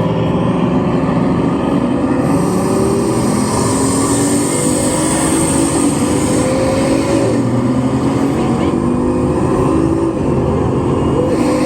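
Bugatti Chiron's 8.0-litre W16 engine running under load, its pitch climbing steadily, dropping back about seven seconds in and climbing again.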